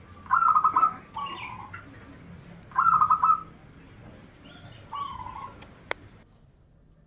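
Zebra dove (perkutut) cooing: phrases of rapid staccato coos, each followed by a lower slurred coo, repeated about every two to three seconds. There is a sharp click near the end.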